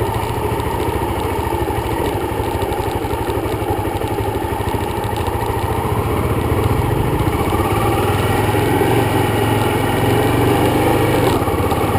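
Dirt bike engine running steadily under way, its firing pulses even throughout, getting a little louder in the last few seconds.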